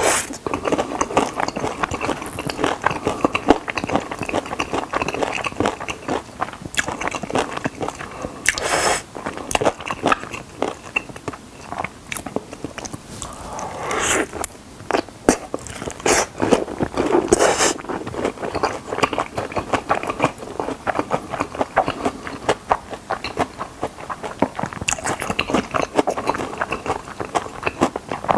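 Close-up eating of chicken drumsticks: crunching bites into the skin and wet chewing, with a few louder crunches around the middle.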